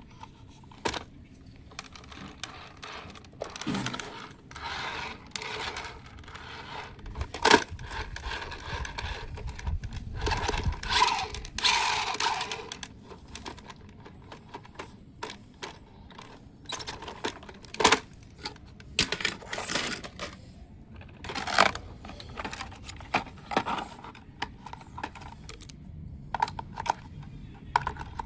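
Small hard objects being handled: irregular clicks, knocks and rattles with some scraping, like plastic and metal toy parts being turned over and set down.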